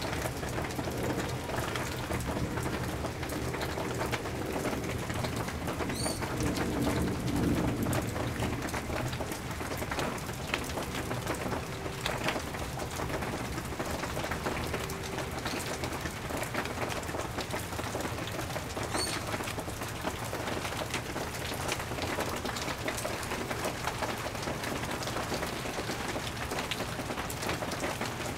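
Steady rain falling in a thunderstorm: a constant hiss with many sharp ticks of drops striking hard surfaces. A low rumble swells and fades a few seconds in.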